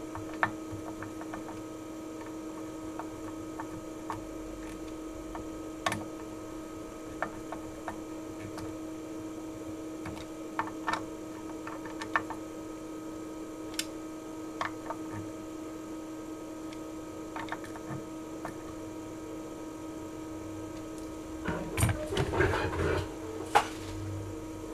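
Small metallic clicks and taps from hand tools and parts while new RF power transistors are being fastened to a radio transceiver's heatsink, over a steady electrical hum. Near the end there are a few seconds of denser clattering and handling.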